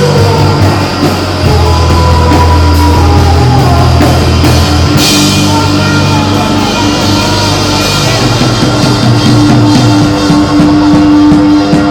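Live rock band playing loudly: drum kit under long held low bass notes and sustained guitar tones, with a cymbal crash about five seconds in.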